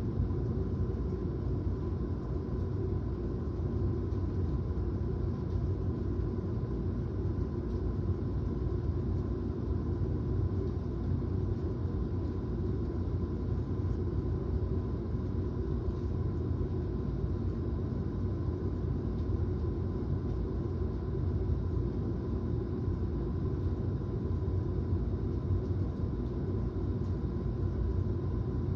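Steady, low rumbling storm noise that runs on without distinct thunderclaps, with a faint steady high tone in it.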